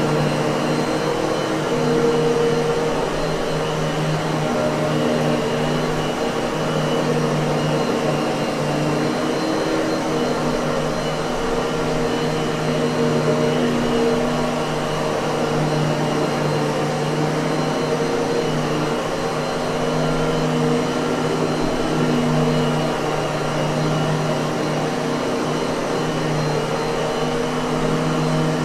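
Miele vacuum cleaner motor running steadily, a continuous whooshing air noise with a steady hum.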